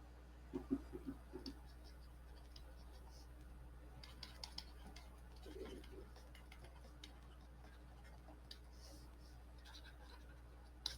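Faint scratching and tapping of a pen writing, with a few light knocks against the writing surface.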